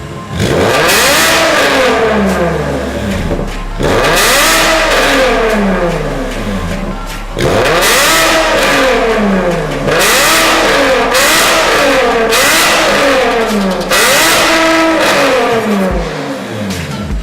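Porsche Panamera S (970) engine and exhaust revving, about six times in a row. Each rev climbs in pitch and falls back to idle.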